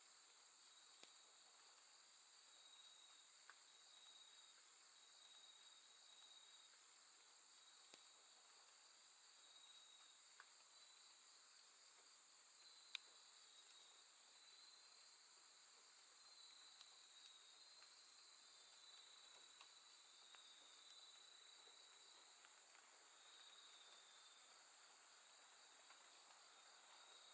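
Faint chorus of crickets and other grass insects trilling steadily in several high pitches. A higher, rapidly pulsing chirp comes in and out for a few seconds a little past the middle.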